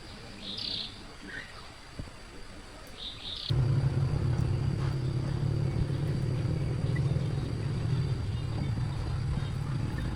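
A few faint high chirps, then about three and a half seconds in an engine starts up abruptly and keeps running with a steady low rumble, most likely the restored tractor's engine.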